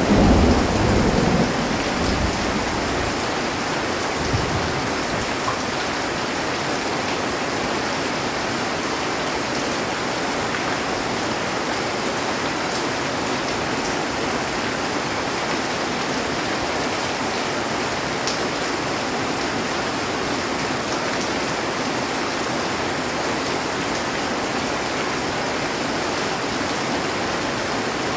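Heavy rain drumming on a metal roof, a steady dense hiss, with the low rumble of a thunderclap dying away over the first couple of seconds.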